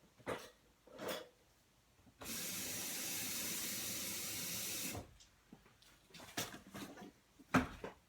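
Kitchen tap running in a steady stream for about three seconds, turned on and off abruptly, as water is drawn for the coffee maker. A few light knocks and clicks of handling come before and after it.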